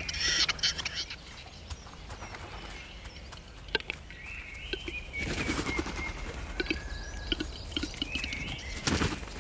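Capercaillie cock displaying on its lek, giving scattered dry clicks with a few noisy bursts, while small birds sing in the background.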